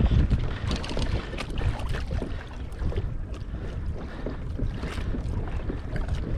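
Wind buffeting the microphone on a fishing kayak at sea, with water noise and scattered small clicks and knocks.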